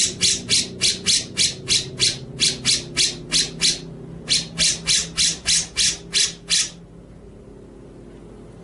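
A songbird's harsh, rasping call notes repeated rapidly at about four a second, with a short break about four seconds in, stopping abruptly about seven seconds in.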